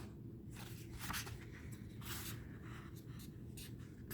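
Faint rustling and scraping of paper and card being handled, in several short soft strokes.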